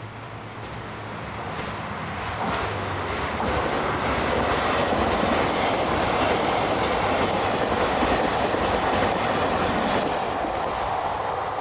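A train approaching and passing close by, its wheels clattering over the rail joints; the sound grows louder over the first few seconds, holds steady, then cuts off abruptly near the end.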